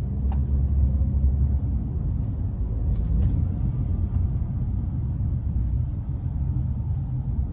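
Steady low rumble, with a few faint ticks.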